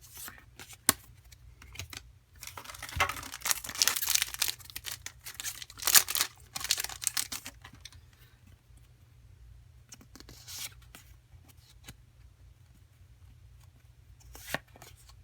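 Foil wrapper of a Pokémon card booster pack crinkling and tearing as it is handled and ripped open, in a couple of crackly bursts a few seconds in, then quieter rustling.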